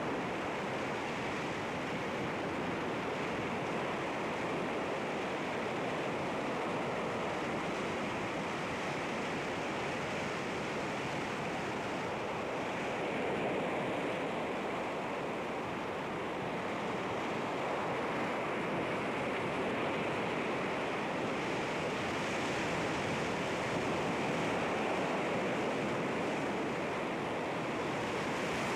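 Sea waves washing against rocks: a continuous surf noise that swells gently now and then, with no single sharp break.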